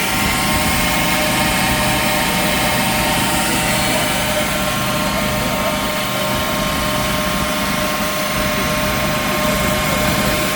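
A forge running with a steady, unchanging rush of noise and several fixed whining tones layered over it.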